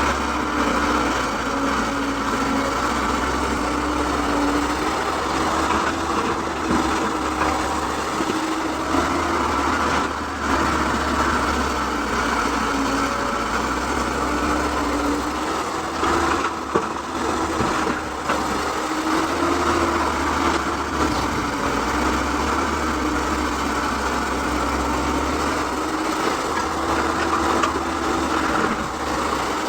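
Excavator's diesel engine running steadily, its note rising and falling slightly as it works, with a single sharp knock partway through.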